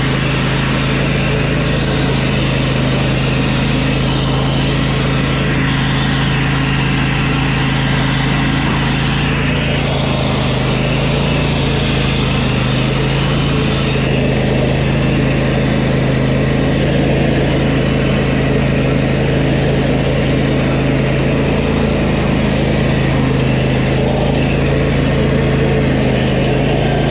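Craftsman YT4000 riding lawn mower's engine running steadily at an even speed, a constant loud hum.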